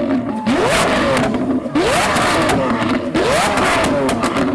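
Lamborghini Aventador S's naturally aspirated V12 with an Fi aftermarket exhaust, blipped three times in quick succession while stationary. Each rev rises sharply and falls back with a burst of exhaust crackles and pops on the overrun, the unburnt fuel that shoots the flames.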